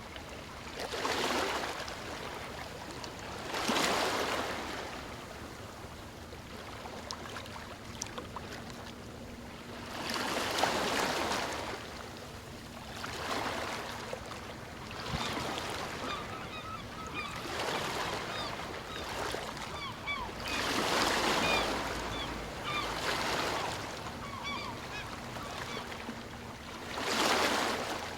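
Sea waves breaking and washing in, surging every few seconds. From about halfway through, many short bird calls chirp over the surf.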